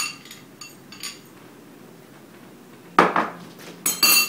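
A spoon clinking and scraping against a dish while thick blended dessert is spooned out: a few light ringing clinks in the first second, a louder knock about three seconds in, then a loud ringing clink near the end.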